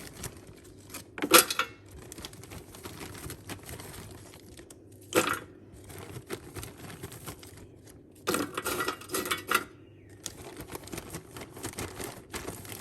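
Kitchen clatter as chips go into an air fryer: a sharp knock about a second in, another about five seconds in, and a rattling, clattering burst lasting about a second near the nine-second mark, over a low steady hum.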